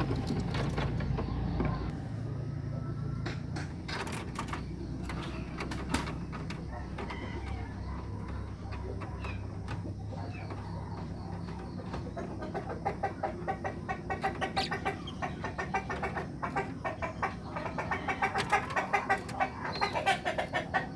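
Birds calling, with a rapid run of short repeated calls starting about halfway through and growing louder toward the end.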